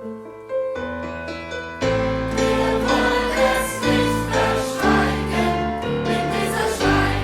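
Live music from a small band of strings, guitar, bass, percussion and keyboards with a choir of young voices. A few soft held keyboard notes open it, and about two seconds in the full ensemble and choir come in together, much louder.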